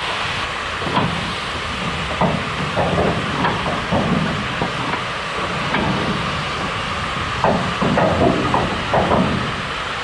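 Steam locomotive hissing steadily, with irregular clanks and knocks, most of them bunched together near the end.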